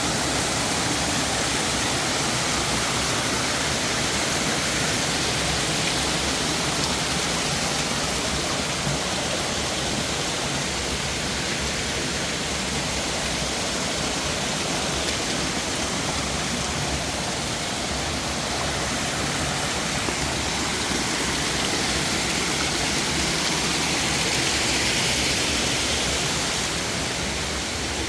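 Steady rushing noise of flowing water, swelling slightly near the end.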